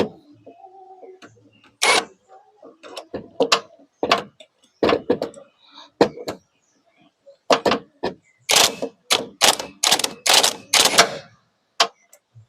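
Metal tools clinking and knocking against the alternator pulley, then a quick run of about seven short bursts from an impact wrench driving the alternator pulley onto its shaft, about a second before the end.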